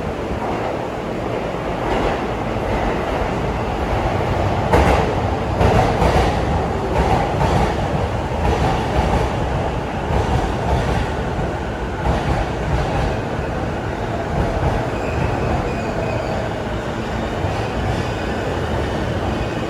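Electric commuter train running at a station platform, its wheels clattering over rail joints, with sharp clicks between about five and thirteen seconds in.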